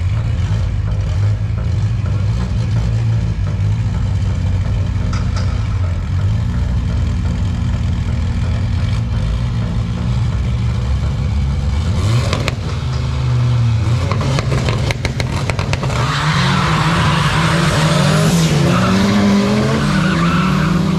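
Two drag-racing cars' engines running and held at revs on the start line, then launching about twelve seconds in and accelerating away hard. Several engine notes climb and drop back through gear changes under a loud rushing noise.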